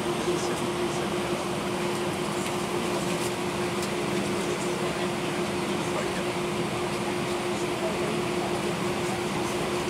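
Cabin noise inside an Airbus A319-131 airliner: the steady rush of air and hum of its IAE V2500 engines, with a constant low drone running under it.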